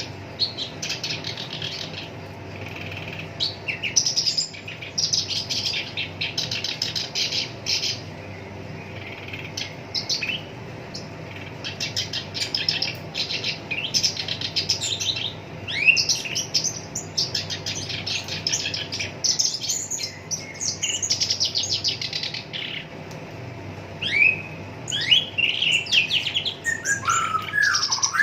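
Black-browed reed warbler singing a long, almost unbroken run of harsh, fast rattling phrases, broken up by quick whistled slides up and down in pitch. A faint steady hum runs underneath.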